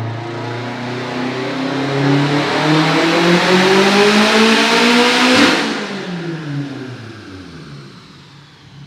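Turbocharged Subaru STi flat-four at wide-open throttle on a chassis dyno, pitch climbing steadily through the rev range on a high-boost pull (about 32 psi). About five and a half seconds in the throttle lifts, and the revs fall away as the engine and rollers spin down.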